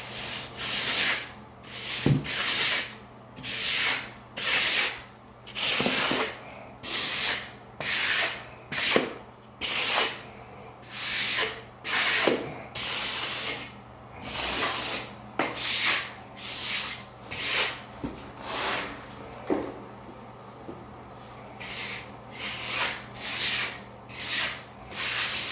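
A hand float scraping and smoothing damp shower-pan mortar (sand-and-cement deck mud), in short repeated strokes a little more often than once a second, with a brief pause about three-quarters of the way through.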